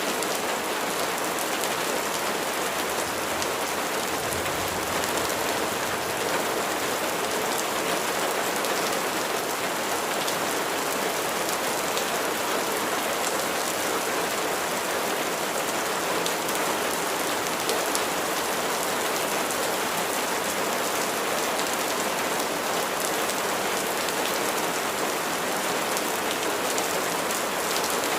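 Steady rain: an even hiss of many raindrops, with fine ticks of single drops landing.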